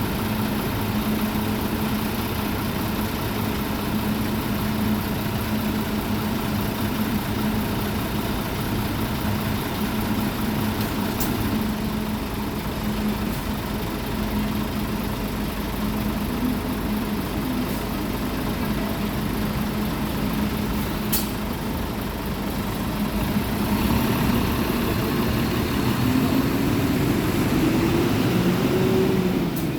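Mitsubishi Fuso Aero Star city bus diesel engine idling steadily, then rising in pitch and loudness over the last several seconds as the engine speed climbs.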